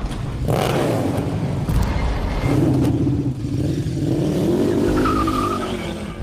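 Superbike engine revving, its pitch climbing and dropping back several times.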